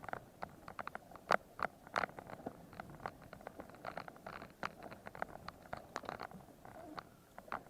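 Irregular crunches, clicks and rattles from a mountain bike moving over rough ground, several short knocks a second at uneven spacing.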